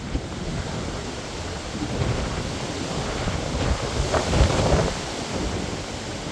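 Strong wind buffeting the microphone, a low rumbling noise, with a louder gust about four seconds in.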